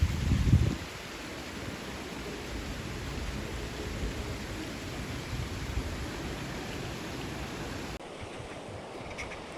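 Creek water rushing steadily, with a low rumble of wind on the microphone in the first second. About eight seconds in, the sound changes abruptly to a thinner, quieter wash of water.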